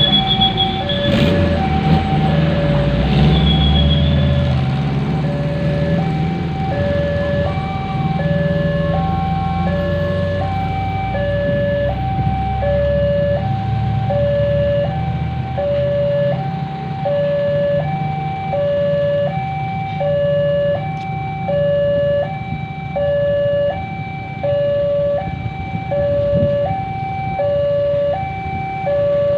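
Two-tone electronic warning sound alternating evenly between a low and a high note, hi-lo siren style, over the steady rumble of a heavy vehicle engine.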